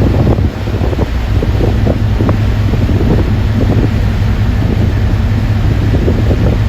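Strong wind buffeting the microphone on a moving ferry's deck, in uneven gusts over a steady low rumble.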